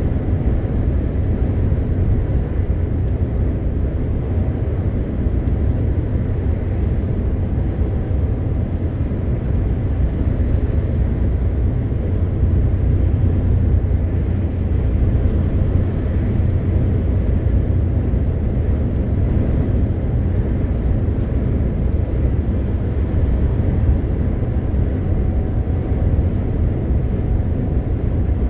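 MAN TGX 520 truck's 12.4-litre straight-six diesel running at a steady cruise, with tyre and road noise: a constant low rumble.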